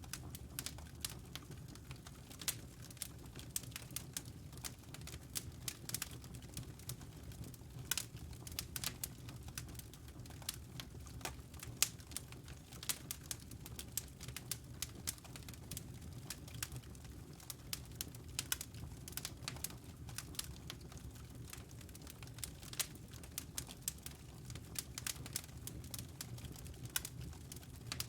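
Wood fire crackling in a fireplace: irregular sharp pops and snaps, several a second, over a steady low rumble, with one louder pop about twelve seconds in.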